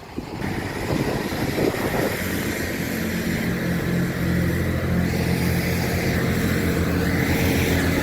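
Diesel train engine running with a steady low hum, building up about two seconds in and growing slowly louder.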